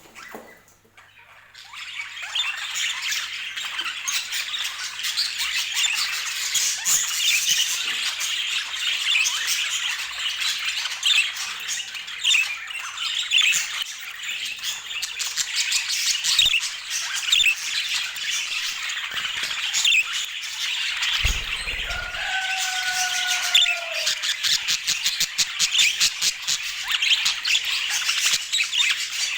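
Budgerigars chattering and warbling continuously in busy, high-pitched squawks and chirps. About two-thirds of the way through there is a low thump, followed by a steady whistle-like tone held for about two seconds.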